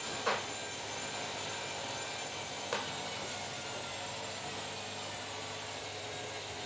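Washing machine running with a steady whir, with two short knocks, one near the start and another about two and a half seconds later.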